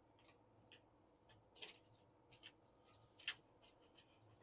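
Near silence with a few faint, short metal clicks, about three, from pins being worked loose on an exhaust fan's power pack.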